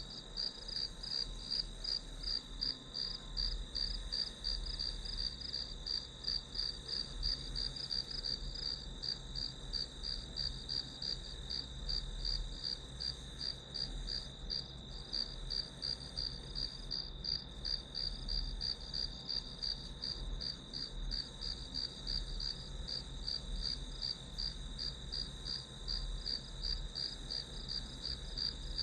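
Crickets chirping steadily in a rapid, even run of high chirps, with a faint low hum underneath.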